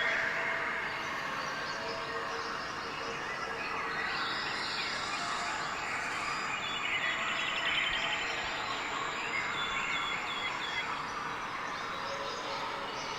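Several small birds chirping and calling, with a rapid trill about seven to nine seconds in, over a steady background hiss of outdoor ambience.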